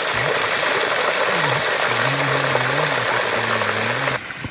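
Loud, steady rush of water with a low wavering hum from about two to four seconds in. The rush cuts off abruptly shortly before the end, leaving a quieter background.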